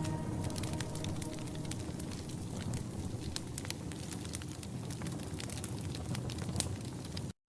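Wood fire crackling and popping in a heavy cast iron fireplace: many sharp pops over a steady hiss. The sound cuts out abruptly just before the end.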